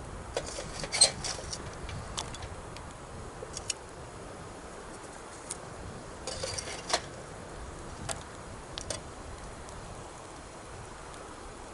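Wood fire crackling with irregular sharp pops, loudest about a second in and again around seven seconds, over the steady rush of a river.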